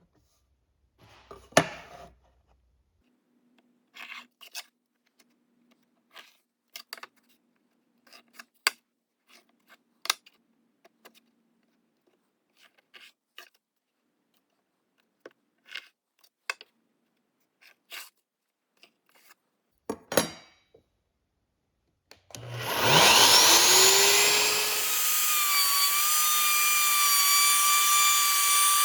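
Scattered knocks and clicks of wood and tools being handled, then about 22 seconds in a power tool spins up with a rising whine and runs steadily at speed.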